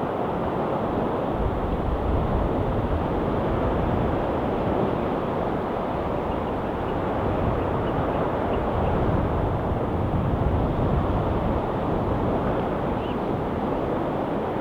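Sea waves washing over a rocky shore: a continuous surf hiss that swells a little now and then, with low wind rumble on the microphone.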